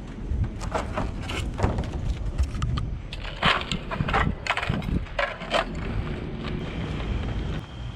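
Rummaging through trash in a dumpster: items and bags being handled and pushed aside, with irregular crinkling, rustling and knocks.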